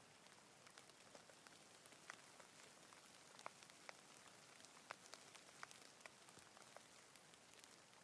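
Faint rain: a soft, steady hiss with scattered individual drops ticking sharply at irregular moments.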